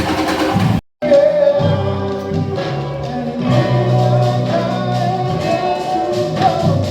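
Samba band music with singing over it, the sound cutting out completely for a moment just under a second in.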